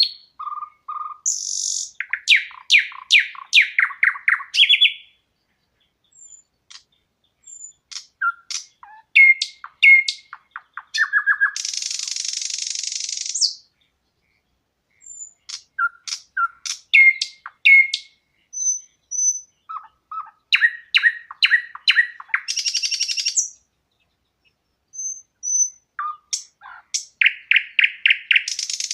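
Songbirds singing in repeated phrases. Each phrase is a quick run of sharp chirping notes, and several end in a buzzy trill about one to two seconds long. Short pauses separate the phrases, with a few thin, high single whistles in between.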